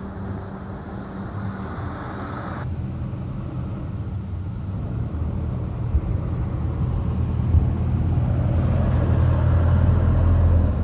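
Garbage truck engine running, a low rumble that builds steadily louder. A higher hiss-like noise over it cuts off about two and a half seconds in.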